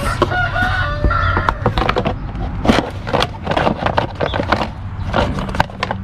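Plastic rear fender being handled and pushed into place on a motorcycle: a run of irregular knocks, taps and scrapes of plastic against the bike, over a steady low hum.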